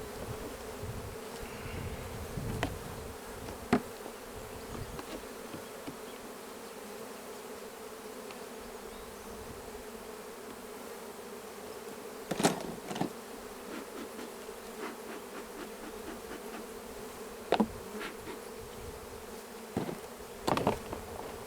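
Honey bees buzzing in a steady hum around an open hive, broken by a few sharp knocks, the loudest about halfway through and near the end.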